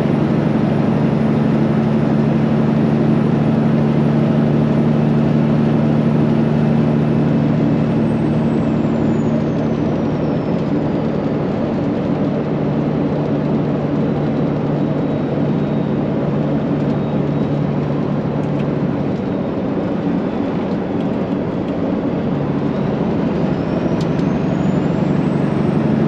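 Straight-piped Peterbilt 389 semi truck's diesel engine running steadily while hauling a load of soybeans; its note shifts about three quarters of the way in. A faint high whistle falls away early on and rises again near the end.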